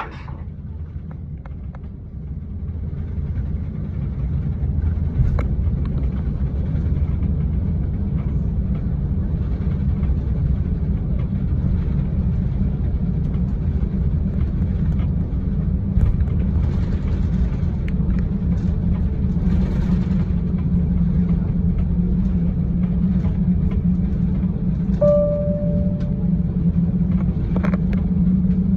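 Airliner cabin noise: the jet engines and airflow make a steady deep rumble that grows a little louder a few seconds in. Near the end there is a single short ringing tone, like a cabin chime.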